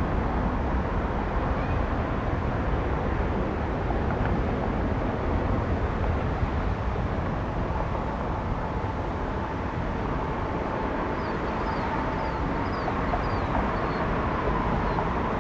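Jet airliner engines rumbling steadily with a faint whine. A few short high chirps come near the end.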